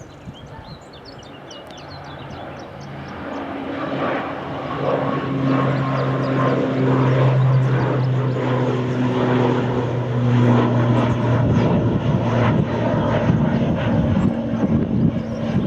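Airliner engines running close by, growing louder over the first four seconds and then staying loud, with a steady low hum.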